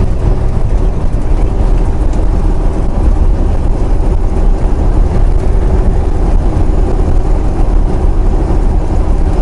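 Semi truck's diesel engine and tyre noise, a steady low drone heard inside the cab while cruising on the highway.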